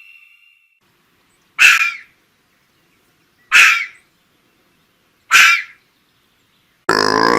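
An animal call repeated three times, each short and about two seconds apart, with silence between them. Near the end a different, longer animal call starts.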